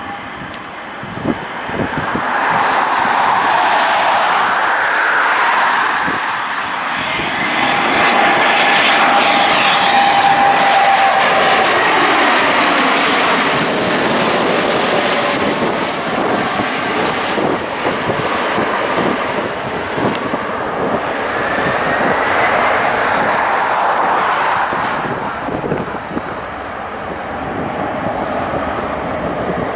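Bombardier business jet's turbofan engines as it flies past low on an approach: a broad rush with a thin whine over it, swelling about two seconds in, loudest in the middle and easing toward the end.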